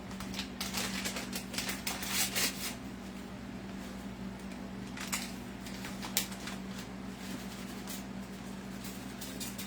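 Rustling and light crackling of a packet of Lipton onion soup mix as the dry mix is shaken and sprinkled over chuck roasts: a quick flurry of small ticks over the first three seconds, then a few scattered clicks. A steady low hum runs underneath.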